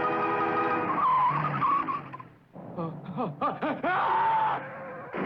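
A sustained music chord ends about a second in, then cartoon tyres screech in a run of wavering squeals as a car skids.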